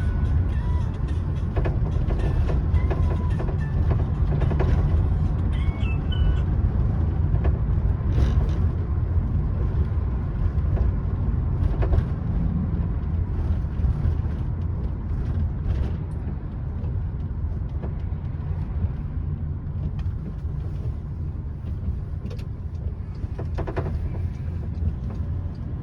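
Steady hum of distant road traffic with a heavy low rumble.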